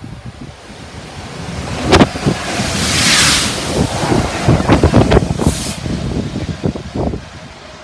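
A freight train of Network Rail tank wagons, with a Class 66 diesel locomotive at each end, passing close at speed: wheel noise and a rush of air buffeting the microphone. There is a sharp bang about two seconds in and a hiss around three seconds, and the sound fades as the rear locomotive goes by.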